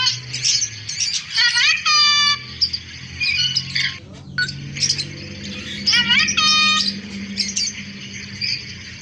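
Birds chirping and squawking: a rapid high twitter throughout, broken twice by a louder pitched call, about two seconds in and again about six and a half seconds in.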